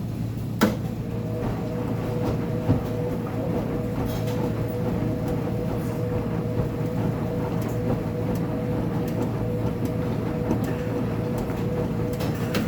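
Uni-Mac UniMat 35 commercial front-load washing machine running through a wash with a steady low hum and rumble. A click just under a second in is followed by a steady whine that holds until near the end, with a few light knocks along the way.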